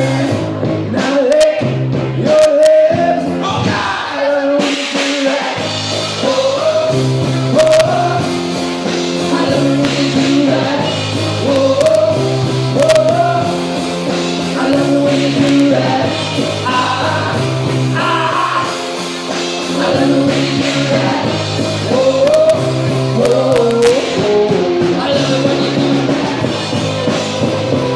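A rock band performing a song: a singer's voice over guitar and bass.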